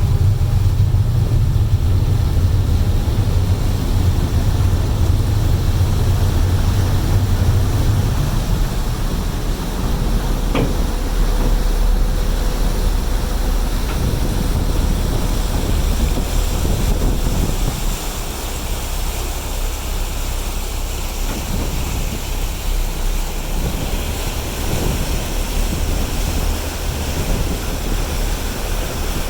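Ferry engines running with a steady low rumble under wind and wash noise; the rumble eases about eight seconds in, and a short rising tone sounds briefly near the ten-second mark.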